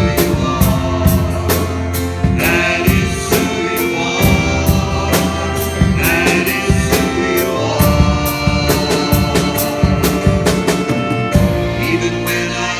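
Contemporary worship band music: drum kit keeping a steady beat under sustained instruments, with singing.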